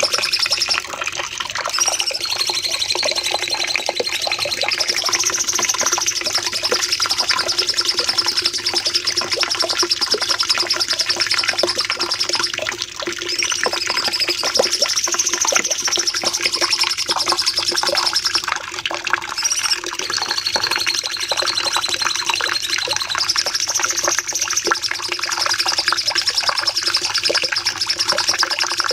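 Cucak cungkok singing a long, unbroken run of rapid high-pitched trilling (the "nembak panjang" song used for masteran), broken by brief pauses and upward swoops every few seconds.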